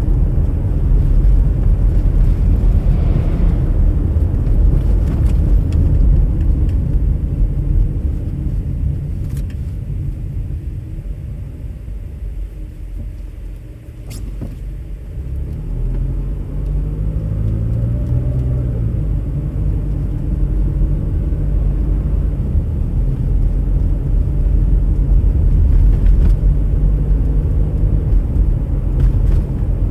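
Low rumble of a car on the move, with engine and road noise. It eases off about halfway through, then builds again as the engine's pitch climbs, as when a car slows and pulls away.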